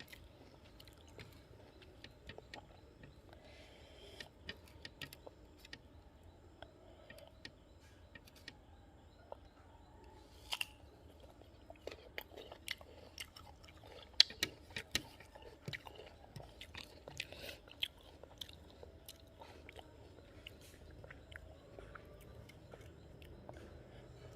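A person chewing crisp guava: scattered soft crunches and wet chewing clicks, with a sharper crunch about fourteen seconds in.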